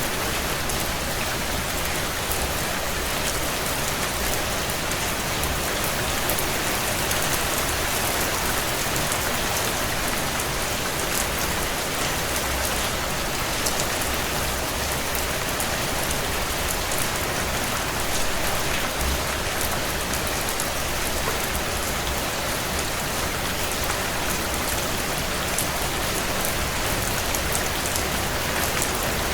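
Steady heavy rain on window panes, a constant even hiss, with scattered light crackles from a wood fire.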